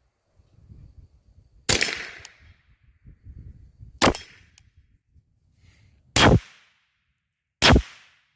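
Ruger 10/22 .22 LR rifle firing four single shots at uneven intervals of about one and a half to two and a half seconds.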